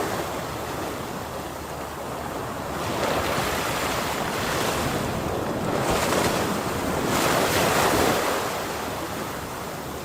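Ocean waves crashing on a shore: a continuous rush of surf that swells and eases several times as successive waves break.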